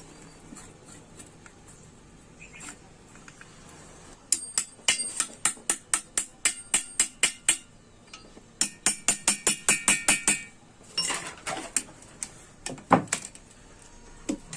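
Hammer tapping on metal: a run of sharp strikes about three a second, a short pause, then a faster run with some ringing, then a few heavier separate blows.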